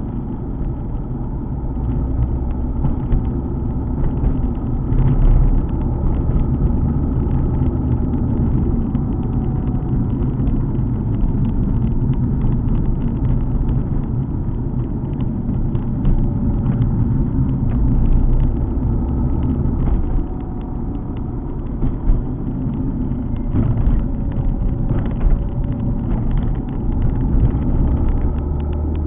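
Alfa Romeo 147 GTA's 3.2-litre V6 running while the car drives on the road, a steady low rumble of engine and tyre noise with slight shifts in the engine note.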